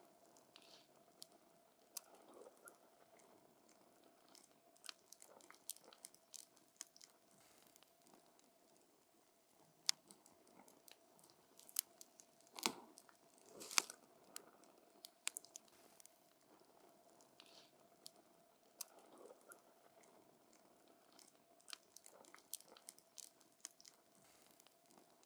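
Wood campfire crackling: irregular sharp pops and snaps over a faint hiss, with a cluster of louder pops about halfway through.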